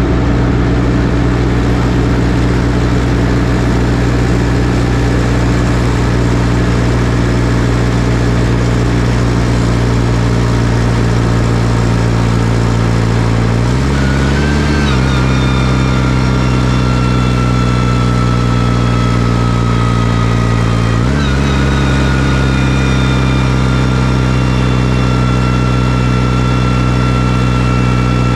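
New Holland T6040 tractor's diesel engine running at a steady speed, its pitch briefly rising about halfway through and again about two-thirds through. From the first rise on, a thin high whine runs along with the engine, slowly falling in pitch.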